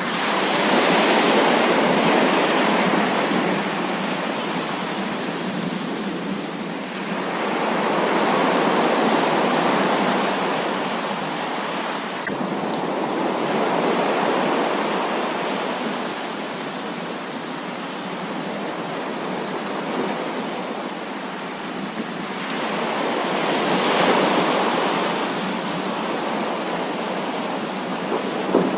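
Heavy rain falling in a steady hiss that swells and eases in slow waves, louder near the start, about a third of the way in and again near the end.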